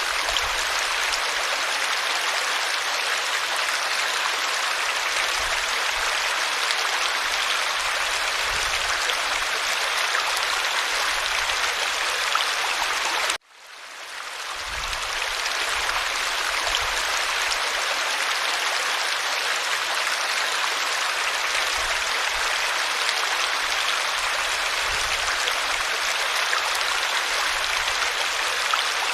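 Creek water flowing steadily over stones, an even rushing sound. About halfway through it cuts out abruptly and fades back in over a second or two.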